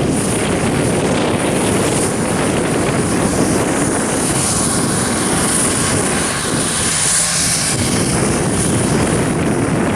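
Aircraft running close by: a loud, steady engine noise with a thin high whine held above it.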